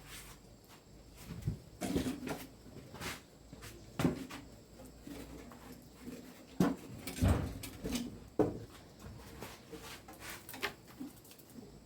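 A series of irregular knocks and clatters, a dozen or so hard objects being handled and set down, loudest about two thirds of the way through.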